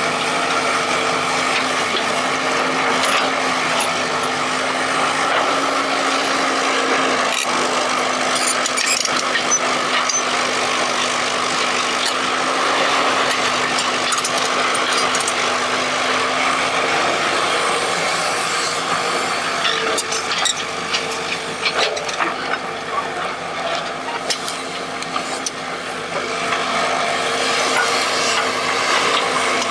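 Excavator at work: a steady motor drone with a constant whine, overlaid with scraping and knocking from digging, the clicks thickest around a third of the way in and again past the middle, where the loudness wavers.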